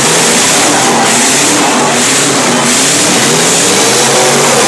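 Demolition derby cars' engines revving, several at once, their pitches rising and falling over a steady loud roar.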